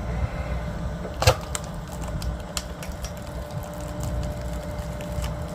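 Firewood being split: one sharp, loud crack about a second in, then a few lighter knocks, over a steady low rumble.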